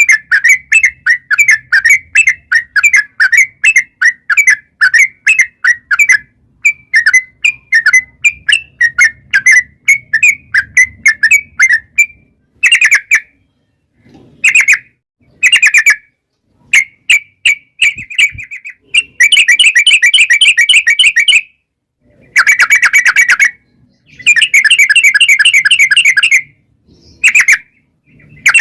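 Yellow-vented bulbul (trucukan) singing loudly: quick chattering notes, about four or five a second, for the first twelve seconds, then short pauses and longer bursts of fast rolling trill in the second half.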